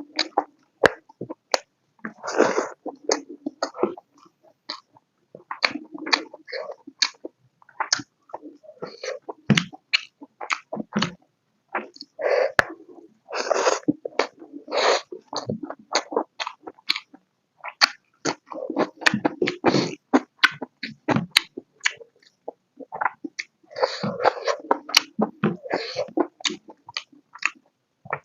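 Close-miked chewing of pork and potato curry: irregular wet smacks and clicks of mouth and lips, in clusters with short gaps.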